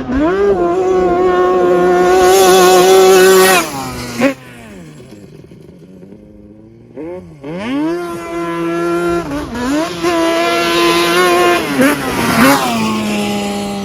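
Yamaha Banshee's 350 cc twin-cylinder two-stroke engine through a MOTOFAST 2-into-1 exhaust, ridden hard: the revs climb and hold high for about three seconds, drop away to a low, quieter running for a few seconds, then climb and hold high again before easing off near the end.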